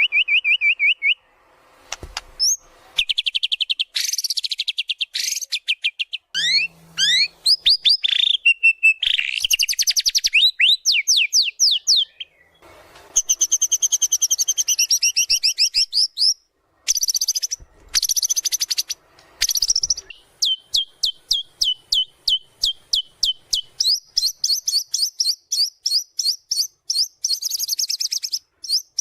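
White-rumped shama (murai batu) singing a long, varied song of rapid trills and fast runs of high, sharp notes, with a steady string of repeated notes a little past the middle.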